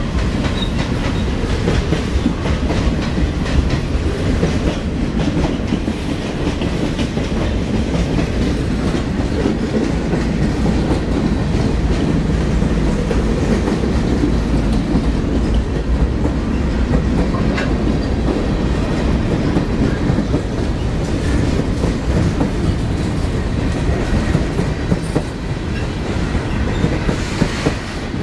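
CSX freight train rolling past: a steady, heavy rumble of steel wheels on the rails, with occasional clicks.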